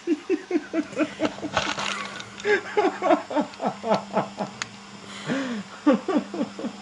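Sphynx cat eating and making a rapid run of short calls that fall in pitch, about three a second, with a brief pause a little past the middle. A faint steady hum lies underneath.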